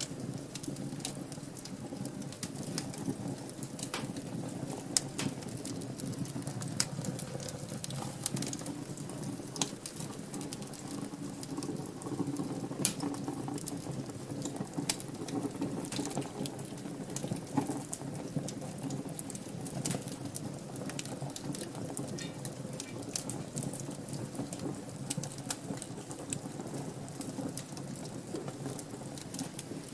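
Wood fire burning in a fireplace, crackling with frequent sharp, irregular pops over a steady low flame rumble.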